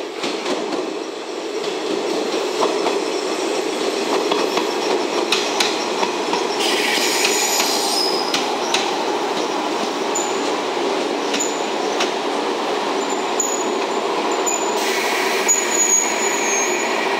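Six-car JNR 381 series limited express electric train running slowly along the platform, its wheels rumbling on the rails with scattered clicks over rail joints. High-pitched wheel squeal comes in about six seconds in and again near the end.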